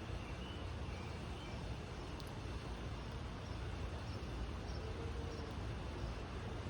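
Steady outdoor background rumble and hiss, with a few faint, brief bird chirps.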